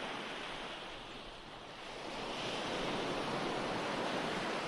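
Ocean waves breaking and washing on a shore, a steady surf hiss with one wave swelling up about two seconds in and drawing back near the end.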